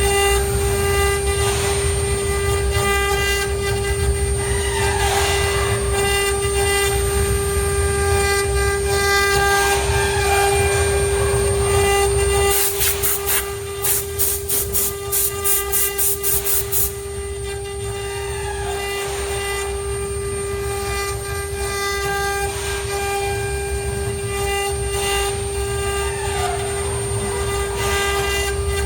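ART1325 CNC router running: a steady high spindle whine with the axis motors rising and falling in pitch as the gantry moves. About halfway through there is a run of sharp ticks, about three a second, for a few seconds.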